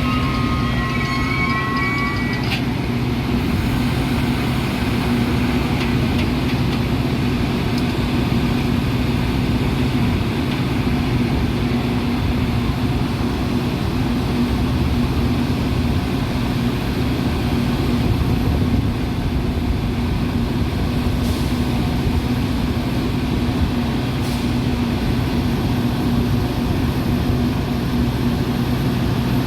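Metra commuter train running: a steady rumble and hum of the coach rolling on the rails. At first there is a high squeal of a few pitches, which stops about two and a half seconds in.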